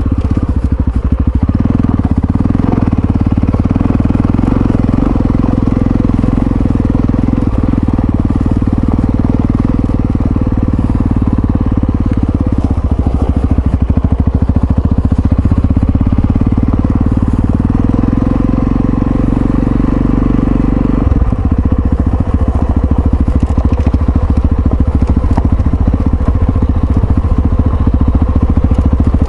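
Yamaha Ténéré XT660Z single-cylinder engine running steadily while riding, its note changing a couple of times as the throttle or gear changes.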